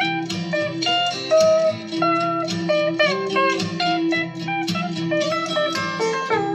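Instrumental guitar music in a country-western style: plucked melody notes, some sliding between pitches, over steady bass notes.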